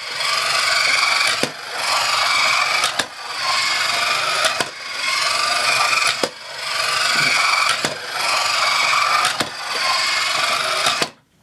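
Battery-powered TOMY Mr. Mouth game running: its small motor and plastic gears whir as the head turns, with a sharp click about every second and a half as the mouth flap drops. It is working again after repair, and it stops abruptly near the end.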